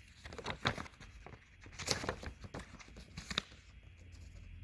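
Paper sheets being handled and turned over: a few seconds of irregular rustling and crinkling that stops shortly before the end.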